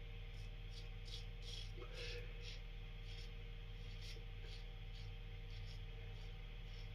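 Adjustable safety razor scraping through lathered stubble in a run of short, faint strokes, a few each second, over a steady low hum.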